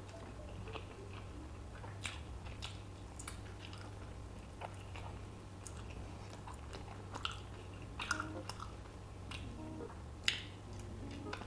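Close-miked chewing and mouth smacking of soft braised oxtail meat eaten with the fingers, with scattered small wet clicks and a sharper click about ten seconds in.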